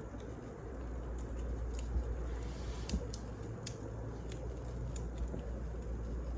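Wood fire crackling: irregular small pops and clicks, with two louder snaps about two and three seconds in, over a steady low rumble.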